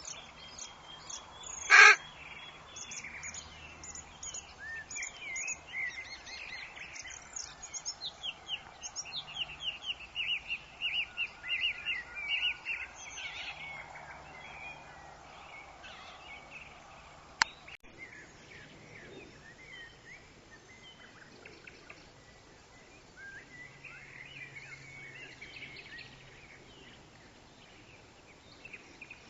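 Forest birds calling and chirping, with many quick repeated notes, busiest in the first half and thinning out later. A short, very loud burst about two seconds in, and a single sharp click a little past halfway.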